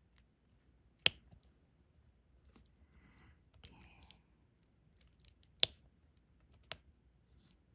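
Diamond painting: the applicator pen and small resin drills clicking and tapping against the canvas and tray, with three sharp clicks and several faint ticks, and a soft rustle in the middle.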